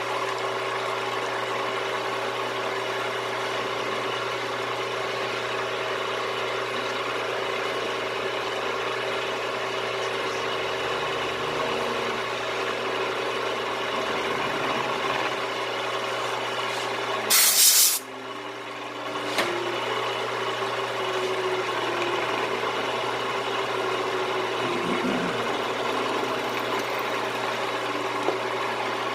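Electric shop machine running steadily with a constant motor hum. About two-thirds of the way through comes a brief loud burst of hiss, after which the sound dips and builds back up.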